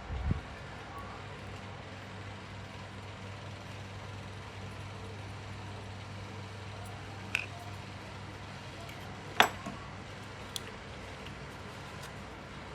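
A steady low electrical hum, with three light, sharp clicks at uneven spacing; the loudest is about nine seconds in.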